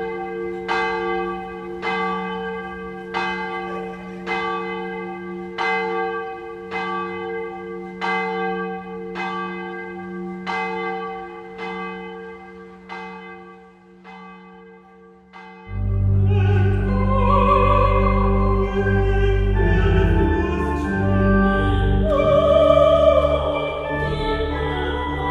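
A church bell tolling, one strike about every 1.2 seconds over its steady hum, slowly fading. About 16 seconds in, music for soprano, alto and organ begins: women's voices singing over deep, held organ notes.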